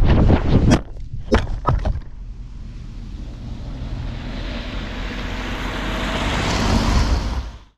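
Onboard audio from a 5-inch FPV freestyle quadcopter: several sharp knocks in the first two seconds, then a rush of motor and wind noise that grows louder and cuts off suddenly just before the end.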